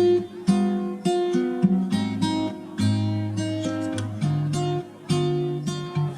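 Background music: strummed and plucked acoustic guitar playing chords with a moving bass line.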